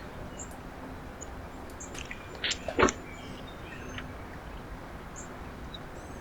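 Small birds chirping faintly at a backyard feeder over a steady outdoor hiss, with two short loud sounds close together about two and a half to three seconds in.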